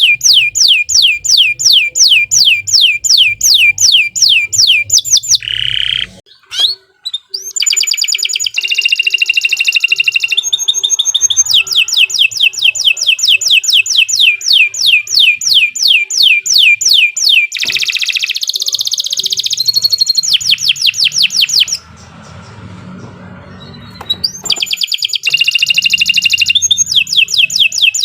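Domestic canary singing long, fast trills of repeated sweeping notes, about five a second, broken by two short pauses, one early and one past the middle.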